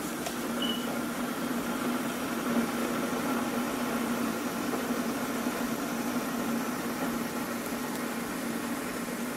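Keurig single-cup coffee maker running its brewing cycle, a steady mechanical hum from the machine's water pump just after the brew button is pressed.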